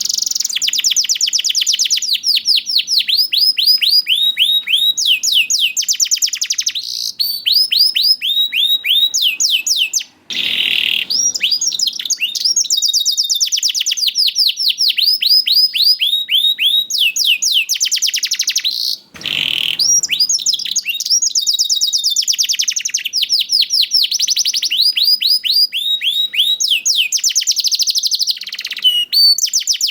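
Domestic canary singing long, fast trills of rapidly repeated downward-sweeping notes, sung as a lure song to set other canaries singing. The song breaks off briefly twice, about a third and two thirds of the way through.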